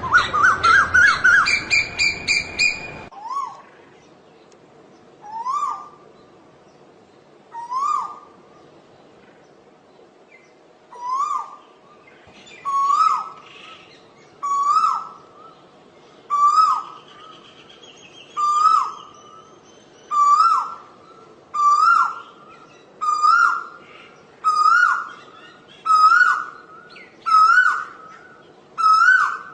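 Asian koel calling: a fast, harsh run of notes that breaks off suddenly about three seconds in. It is followed by a series of rising two-note 'ko-el' calls, about one every two seconds, which grow louder, higher and slightly faster.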